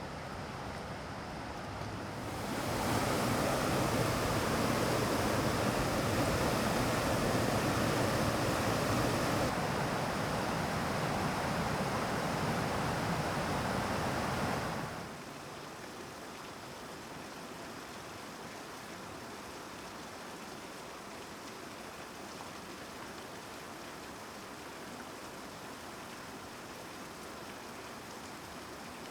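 Rapids of a mountain stream rushing over rocks, a steady noise of water. About two seconds in it jumps much louder, and about fifteen seconds in it drops suddenly to a softer, even hiss of water.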